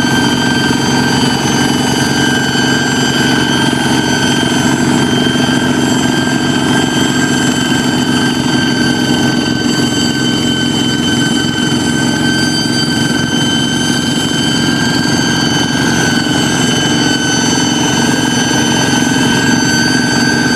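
Kubota hand tractor's single-cylinder diesel engine running steadily, with a steady high-pitched whine over the engine note.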